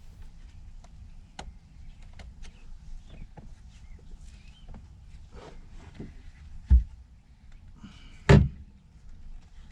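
Scattered light clicks and taps of hands and tools working on plastic car interior trim around a rear deck speaker, with two much louder knocks, the first about two-thirds of the way through and the second a second and a half later.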